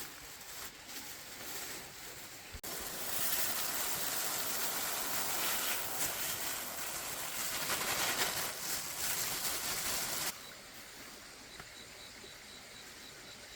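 A loud, steady rushing noise that starts abruptly a few seconds in, runs for about eight seconds and cuts off suddenly, over a quieter outdoor background.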